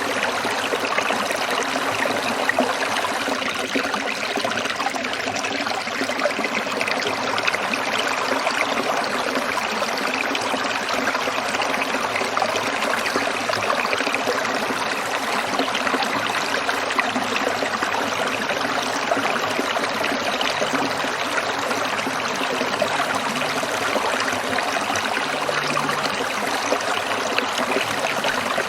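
Small stream of water trickling and babbling over stones, a steady, even rushing without breaks.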